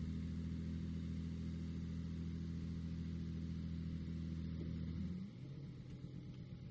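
Heavy construction machine's diesel engine running steadily, then easing off to a lower, quieter note about five seconds in.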